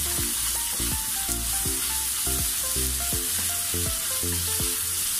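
Onion, garlic, ginger and spring onion sizzling steadily in olive oil in a frying pan as they are stirred with a wooden spatula. Light background music with short plucked-sounding notes plays underneath.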